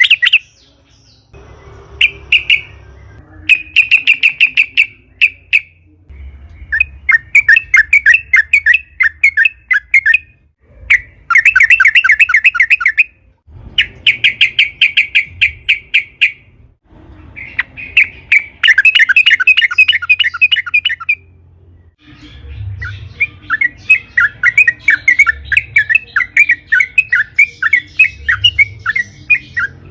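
Yellow-vented bulbul (trucukan) singing: repeated phrases of rapid bubbly chattering notes, each phrase lasting one to three seconds, separated by short pauses.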